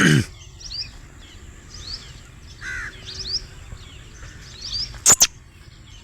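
Birds calling outdoors: a steady run of short, high, rising chirps, with two loud harsh notes in quick succession about five seconds in.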